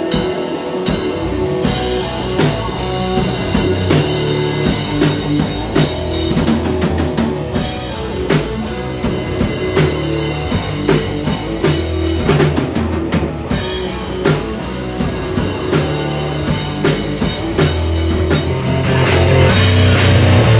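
Rock music with drum kit, bass and electric guitar playing at a steady beat, swelling louder near the end.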